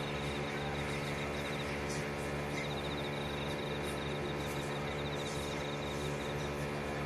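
A steady low hum, with a rapid high-pitched pulsing trill that starts and stops several times, and a few faint light clicks.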